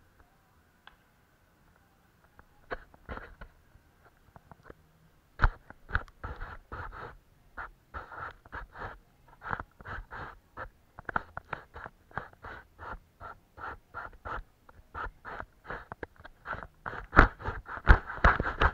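Paintbrush strokes on paper: short, scratchy strokes at about two to three a second. They come sparse at first, turn steady about five seconds in, and grow busier near the end.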